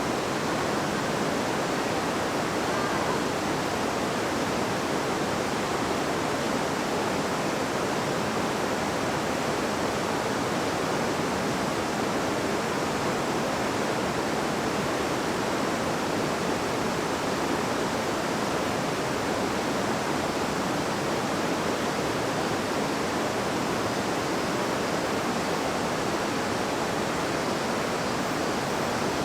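River water babbling and flowing in a steady, unbroken rush.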